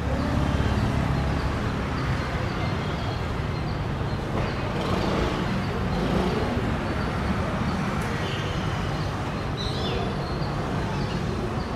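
Train approaching, a steady low rumble mixed with road traffic noise, with birds chirping high above it now and then.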